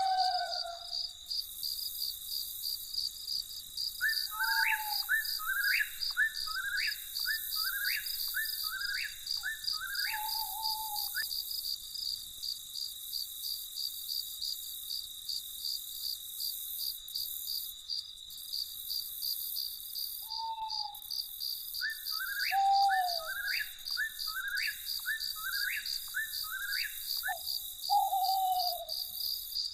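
Crickets trilling steadily in a fast, even pulse, with a bird calling in two bouts of quick rising notes, about one a second, and a few lower, short falling calls.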